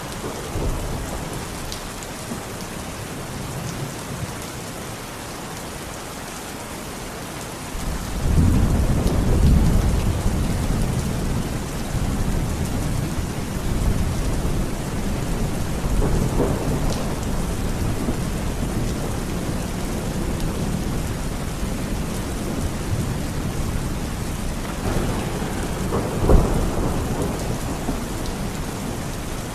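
Heavy rain falling steadily in a thunderstorm. About eight seconds in, a deep thunder rumble builds suddenly and rolls on, and a sharper thunderclap comes near the end.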